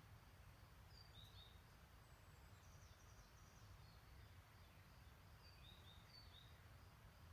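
Faint, distant birds chirping: a few short high chirps about a second in, a quick run of notes around three seconds, and more chirps near six seconds, over a steady low rumble of outdoor background.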